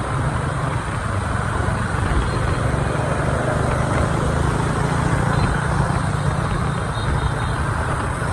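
Riding a motorbike through city traffic: a steady din of the bike's engine and the surrounding street traffic, with no single sound standing out.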